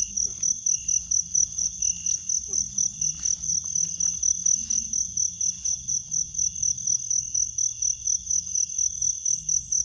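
Crickets chirping steadily in a fast, even pulse of about four to five high chirps a second, with a second, lower insect call coming and going.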